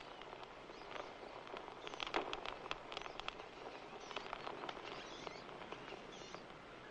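Birds calling in short, sharp chirps over an outdoor background, busiest in the middle, with a few higher curving calls near the end.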